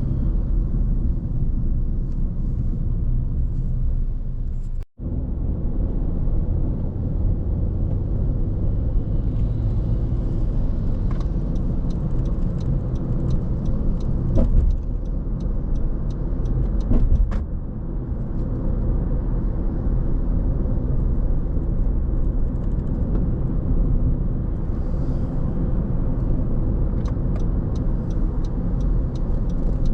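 Car driving on a city road: a steady low rumble of tyres and engine, broken by a sudden brief dropout about five seconds in, with a few sharp clicks around the middle.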